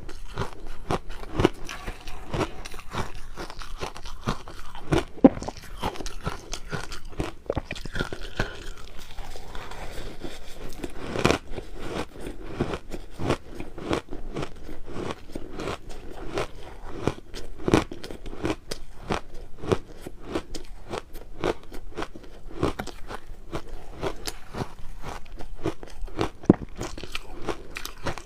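A person chewing and biting crushed ice, a dense run of sharp crunches that goes on without a pause.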